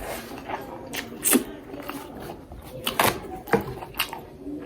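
Close-miked eating sounds: a few sharp, irregular crunches and clicks of someone chewing food.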